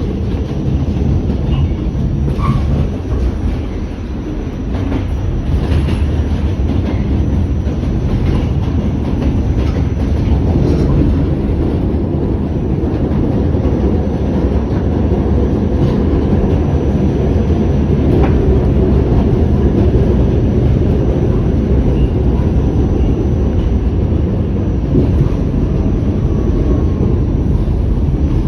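New York City subway Q train running on its tracks: a steady low rumble of wheels on rail, with scattered clicks from the rail joints.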